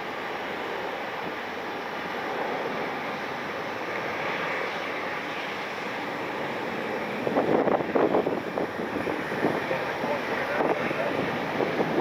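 Jet airliner engines running as a steady rushing roar, which turns rough and crackling in irregular surges from about seven seconds in.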